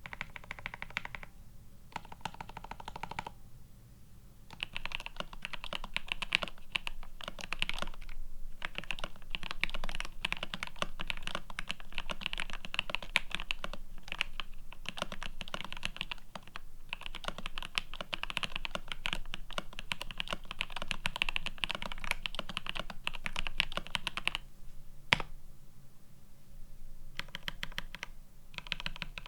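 Fast continuous typing on a plateless, PCB-mounted mechanical keyboard with GMK keycaps and linear switches, Everglide Aqua King V3 from about five seconds in. A few strokes come first, then steady typing with a brief pause and a single click near the end, and typing resumes.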